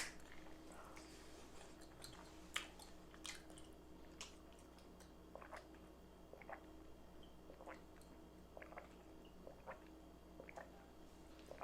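Near silence with a faint steady hum and scattered faint, short clicks and ticks, about one or two a second.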